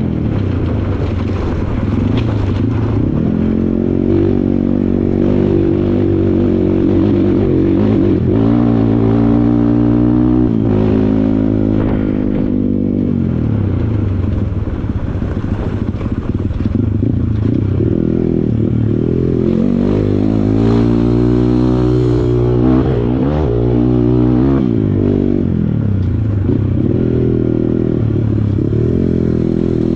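Kawasaki KLX140 trail bike's single-cylinder four-stroke engine riding over rough ground, its pitch rising and falling over and over as the throttle is opened and closed, with a few brief knocks.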